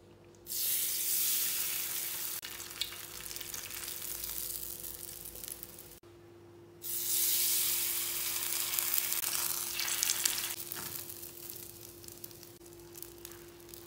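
A rice-paper-backed seaweed sheet hitting hot oil in a frying pan: a sudden loud sizzle about half a second in that slowly dies down, then a second sheet sizzling the same way about seven seconds in and fading to a light sizzle near the end.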